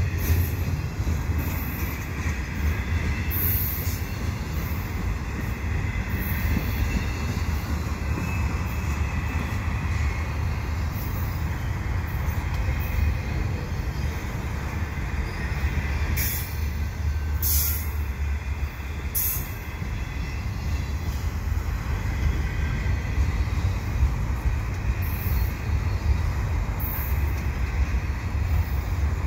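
Loaded double-stack container well cars of a freight train rolling past close by with a steady low rumble. Short, high-pitched wheel squeals break in several times, most of them about two-thirds of the way through.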